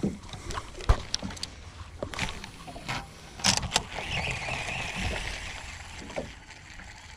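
A string of clicks and knocks from gear being handled aboard a boat, with one sharp knock about a second in, then an even hiss lasting about two seconds around the middle.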